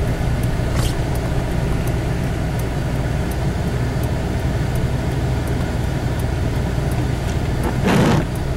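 Steady low rumble of a four-wheel-drive vehicle's engine and tyres heard from inside the cabin while it drives slowly through snow. About eight seconds in, there is a brief, louder rush.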